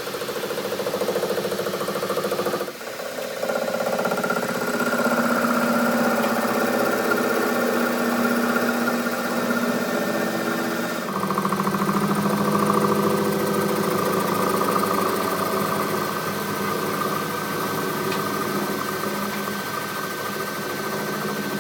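Steady running of a workshop machine's motor, a pitched hum with several steady tones. It changes abruptly about three seconds in and again about eleven seconds in.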